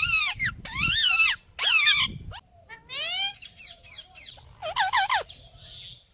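Pet parrots calling: about five short, loud calls in a row, each rising and falling in pitch, with short pauses between them.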